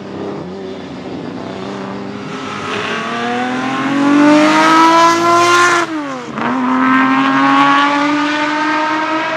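Racing car engine accelerating hard, its pitch climbing steadily, dropping sharply about six seconds in as it shifts up a gear, then climbing again.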